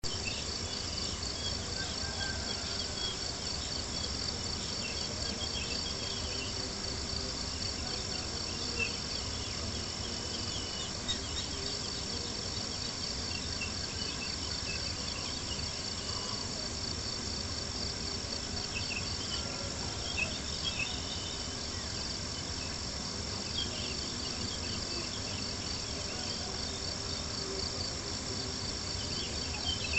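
Crickets chirping steadily in a high, fast-pulsing chorus, with a few sharp pops from a crackling campfire.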